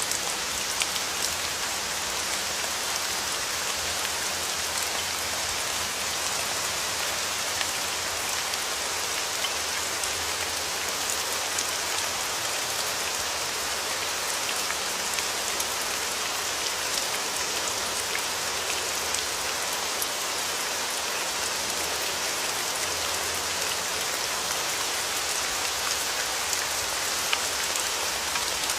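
Steady rain falling in an even hiss, with individual raindrops ticking sharply now and then.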